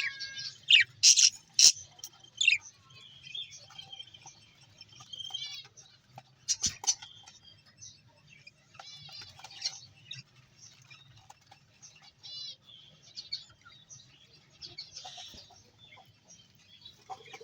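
Small birds chirping in short, high, repeated notes, loudest in the first couple of seconds and again about six to seven seconds in, over a faint low hum.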